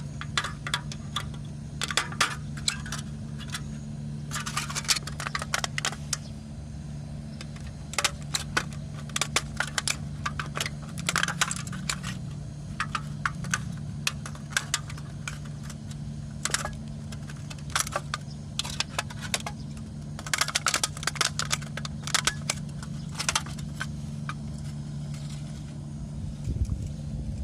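Irregular sharp clicks and clinks, many in short clusters, over a steady low hum.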